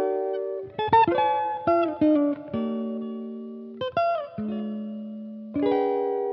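Background music: an electric guitar picking chords and short melodic notes, each struck and left to ring out, a new one every second or so.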